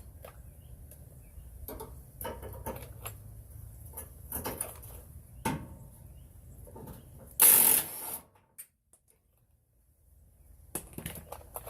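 Socket ratchet and tool clicks and knocks, irregularly spaced, while the 18 mm sway bar bracket bolt is worked off. About seven and a half seconds in comes one loud burst lasting about half a second, then a couple of seconds of near silence.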